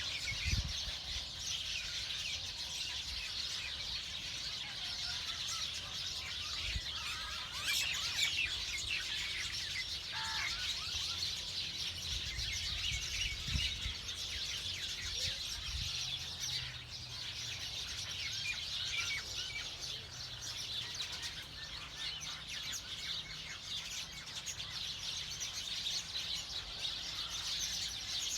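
A chorus of many small birds chirping at once, a dense unbroken twittering, with a low rumble underneath.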